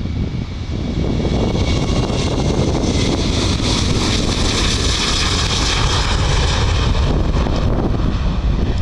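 Jet airliner engines as a plane passes: a rushing hiss that swells to a peak midway and fades near the end, over a low rumble of wind buffeting the microphone.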